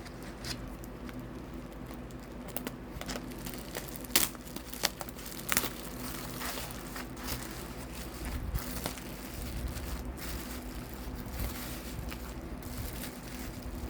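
Packaging being handled and unwrapped: irregular crinkling and rustling with sharp crackles, as layers of wrapping are pulled off a package.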